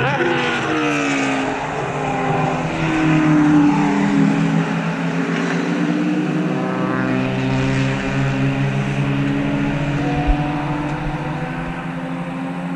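Several race cars' engines at high revs passing close by one after another, the pitch of each falling as it goes past while others run on steadily.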